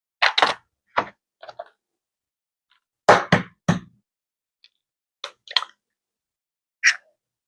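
A series of about nine sharp knocks and clacks of kitchenware being handled on a counter, coming irregularly and often in quick pairs.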